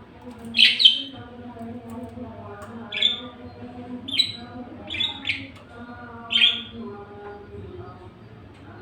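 Budgerigar giving short, sharp chirps: a quick loud pair about half a second in, then four or five more spaced a second or so apart. A steady low tone runs underneath.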